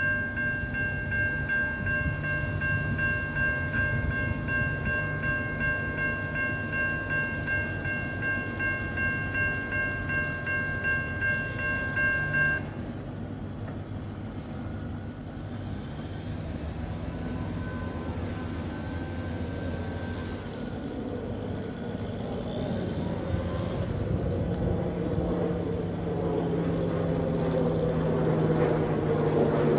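Mechanical level-crossing bell, a WC Hayes, ringing rapidly for about twelve seconds and then stopping abruptly. Afterwards a low rumble and hum build steadily as a train approaches the crossing.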